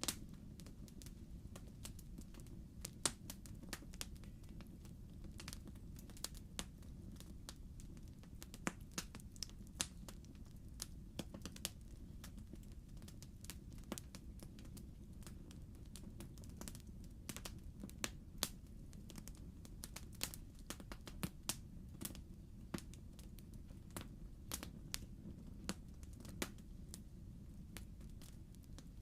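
Wood logs burning in a fireplace: a steady low rumble of the fire with frequent sharp, irregular pops and snaps of crackling wood.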